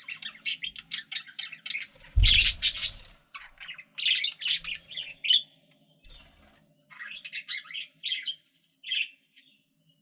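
Pet budgerigars chirping and warbling in quick strings of short notes, with a louder harsh squawk about two seconds in. The calls thin out to scattered chirps toward the end.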